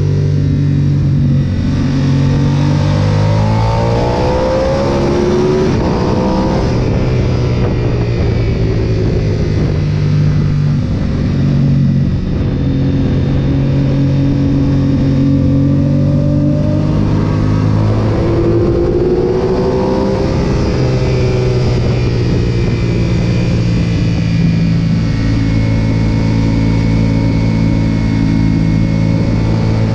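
Sportbike engine heard from onboard on a racetrack lap, with wind rush. The engine holds a steady note through corners and revs up hard twice, about two seconds in and again near twenty seconds, each time falling back as the rider shifts and brakes.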